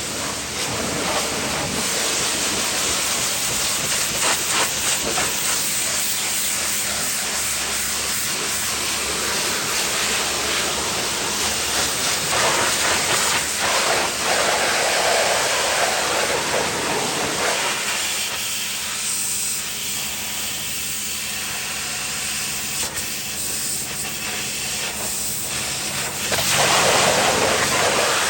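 Pressure-washer water spray hissing against a muddy pickup truck's body. It swells louder a couple of times, around the middle and near the end.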